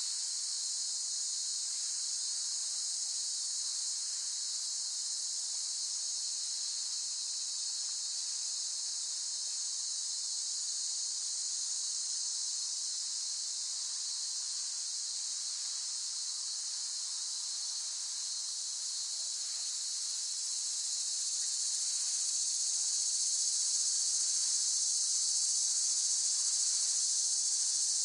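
A chorus of cicadas: a continuous, high-pitched buzzing drone with no breaks, which swells slightly louder about three quarters of the way through.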